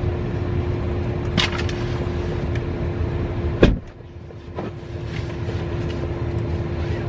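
Steady car noise, a low rumble with a constant hum, inside a car. A sharp knock comes a little over three and a half seconds in, and the rumble drops briefly after it.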